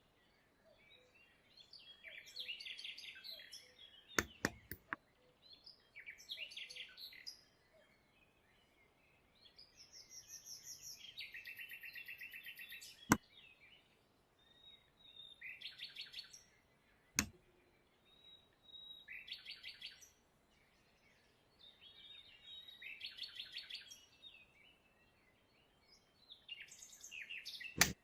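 A songbird singing short, rapid trilled phrases every three to four seconds, with a few sharp clicks in between.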